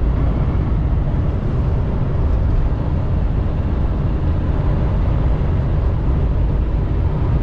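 Inside a semi-truck cab at highway speed: a loud, steady low rumble of engine and road noise, with strong wind blowing against the truck.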